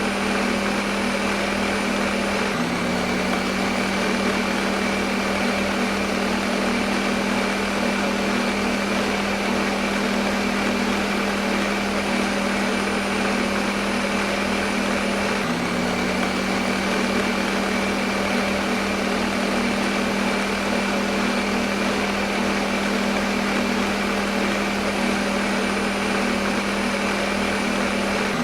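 Electric kitchen blender running steadily: a continuous motor whir with a strong low hum, with a small hitch in the hum twice, about 13 seconds apart.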